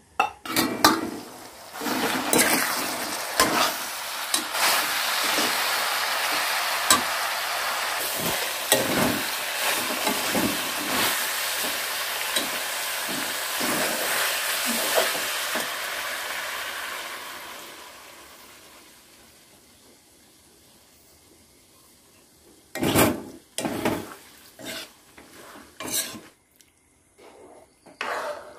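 Pork and bamboo shoots sizzling loudly in a steel wok while a metal ladle stirs and clinks against the pan; the sizzle fades away over a couple of seconds after about 17 seconds. Near the end, a few separate knocks and scrapes of the ladle against the pan.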